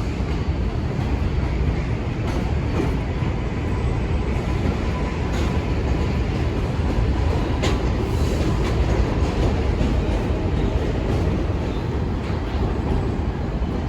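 New York City Subway train running through the station: a steady, loud rumble of wheels on the rails, with scattered sharp clicks from the wheels crossing rail joints.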